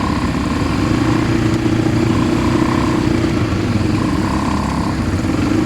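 ATV engine running steadily while being ridden, with a higher whine that comes and goes three times.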